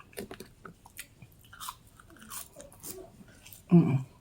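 A person chewing and biting crunchy fried food close to the microphone, with many small crunches and crackles and one louder, short burst near the end.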